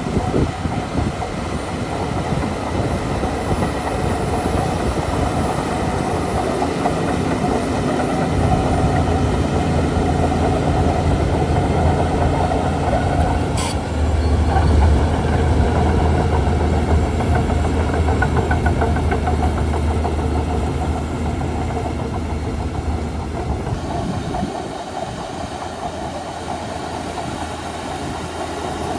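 Shantui DH17C2 bulldozer's diesel engine running under load as it pushes soil, its low rumble building through the middle and easing off near the end. There is a single sharp click about halfway through.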